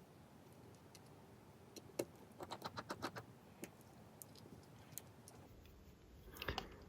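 Faint, scattered light clicks and taps of small metal phone parts and tools being handled during iPhone 5s reassembly, with a quick run of clicks a couple of seconds in.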